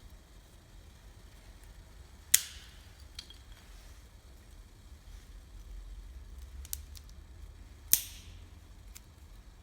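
Wood campfire popping: two loud, sharp pops about two and eight seconds in, with a few faint crackles between them.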